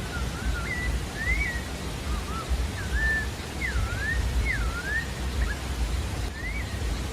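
Creamy-bellied thrush (sabiá-da-várzea) singing: a run of short, clear whistled phrases that rise and fall in pitch, with a steady low rumble underneath.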